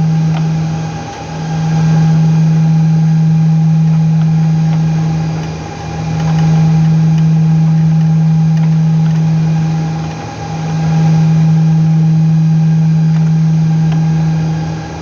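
A loud, steady electrical or mechanical hum on one low pitch, with a fainter higher tone above it, dipping briefly about every four to five seconds.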